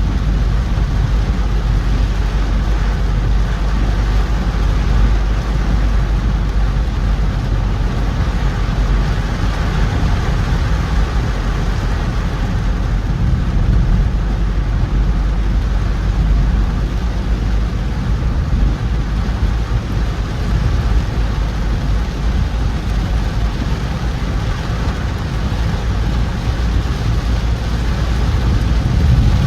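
A car driving in heavy rain: a steady low rumble of engine and road noise under an even hiss of rain and wet tyres, with no distinct events.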